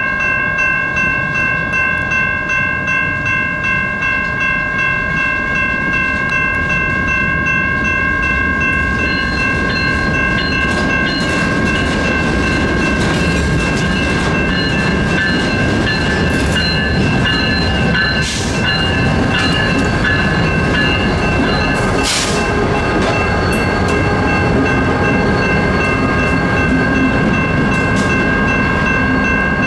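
Grade-crossing warning bells ringing steadily while a Union Pacific freight train led by diesel locomotives rolls through the crossing, the rumble of engines and wheels growing after the first third. There are two sharp metallic noises about two-thirds of the way in.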